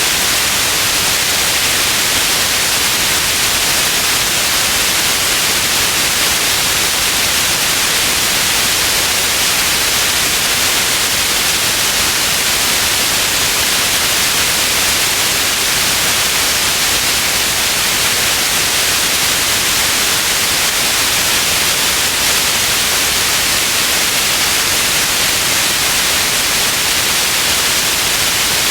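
Steady synthetic white noise, an even hiss strongest in the high range, with no change throughout.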